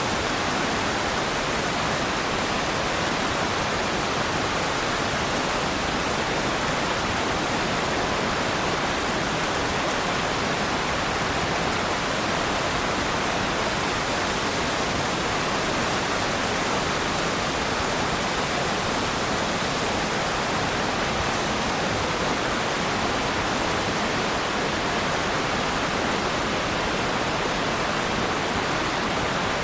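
Waterfall: water pouring and splashing in a steady, even rush with no let-up.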